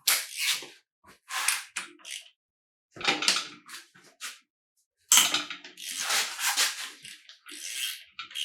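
Hand tools at work on a Ford 4.0L SOHC V6 engine: short, irregular bursts of metallic clicking and rattling with brief silences between, busiest a little past the middle.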